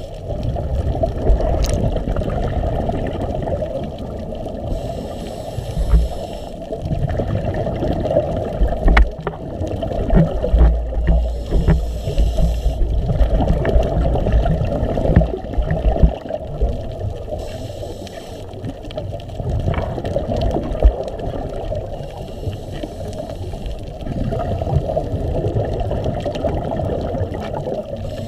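Muffled water sloshing and gurgling around a camera used to film reef fish, with uneven low knocks and swells in level.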